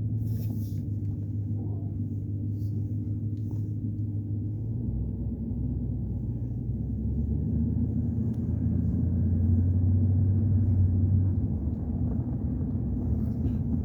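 Vehicle engine running with a steady low hum and rumble, heard from inside the cab, growing somewhat louder for a few seconds past the middle.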